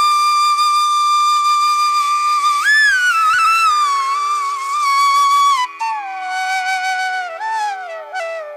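Instrumental music: a solo flute melody over a steady drone. It holds long notes with sliding bends, steps lower about halfway through, and ends with small ornamented turns.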